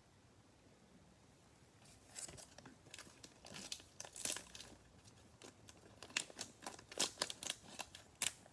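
Plastic cello wrapper of a trading card pack being torn open and crinkled by hand, in sharp crackles that start about two seconds in and come thicker toward the end.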